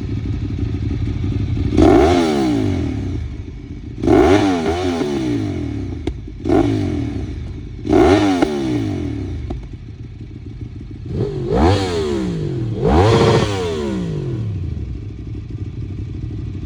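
Sport motorcycle with an aftermarket exhaust idling, blipped several times: each quick rev rises sharply in pitch and falls back to idle.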